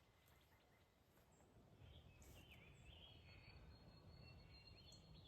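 Near silence: a faint low wind rumble, with a few distant bird chirps from about two seconds in and a thin steady high-pitched insect-like tone.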